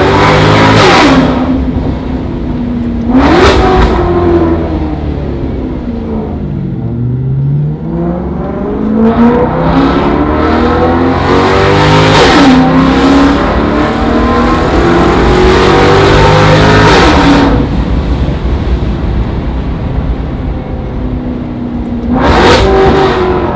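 Maserati GranTurismo V8 revving loudly through a custom cat-delete, valved cat-back exhaust. The engine note shoots up and drops back several times, with one slower, longer climb about halfway through.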